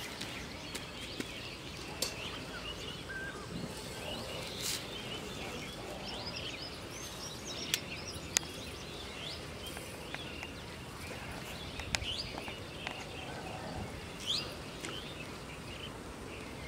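Outdoor pond-side ambience: many small birds chirping and twittering over a steady low hiss, with a few sharp clicks and taps of handling.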